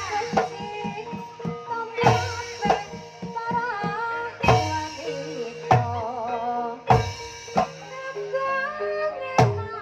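Javanese gamelan music in the Banyumas style: a sinden's voice winds through ornamented phrases over sustained metallophone tones, punctuated by sharp drum strokes.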